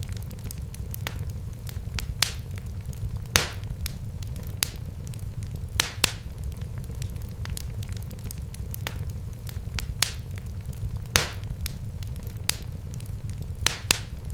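Wood fire burning in a fireplace: a steady low rumble of the flames with sharp, irregular crackles and pops, a few of them louder.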